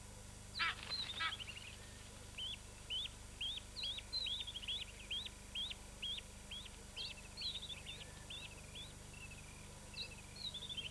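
Bird calls: two loud, harsh calls about half a second and a second in, then a steady series of short, high, rising chirps about two a second, over a faint low hum.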